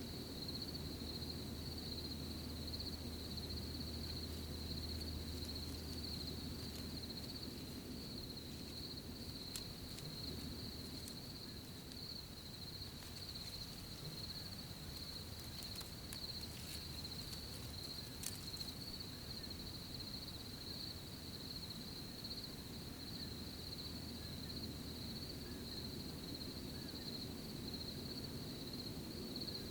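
Crickets chirping in a steady, continuous high trill over a low outdoor rumble, with a scatter of faint ticks and leaf rustles in the middle.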